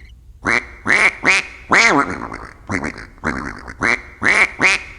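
Duck quacking: a quick run of about a dozen loud, nasal quacks, each falling in pitch.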